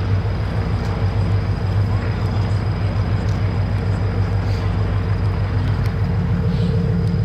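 An engine running steadily, a low, even hum that holds without change.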